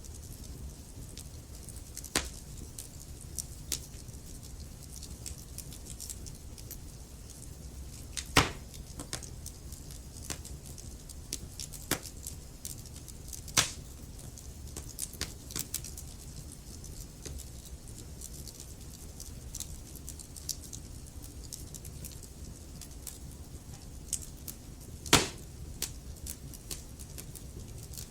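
Logs burning in a fireplace: scattered crackles over a low steady rumble, with three sharper, louder pops about eight, thirteen and twenty-five seconds in.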